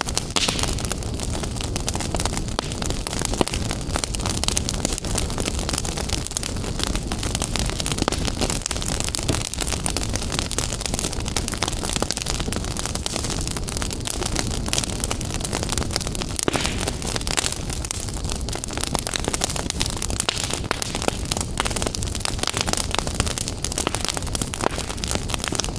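Wood fire burning in a fireplace: a steady rushing hiss with dense, irregular crackles and small pops.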